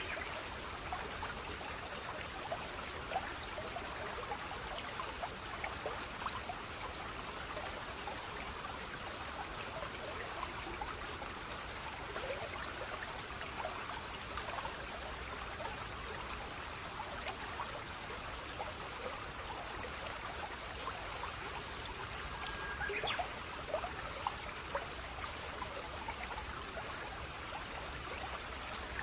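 Steady running water, trickling and splashing, with many small droplet-like ticks through it.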